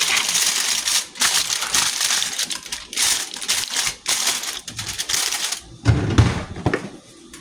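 Close rustling and crinkling with short breaks, like something handled right against the microphone, then a dull thump about six seconds in.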